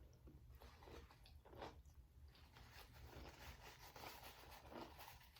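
Faint close-miked chewing and biting of food, with short wet mouth clicks scattered through.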